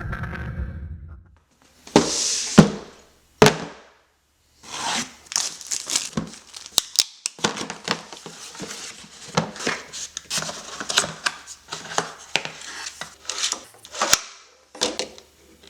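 Lego set packaging being handled and opened: tearing, plastic bags crinkling, and many sharp clicks and rattles of pieces.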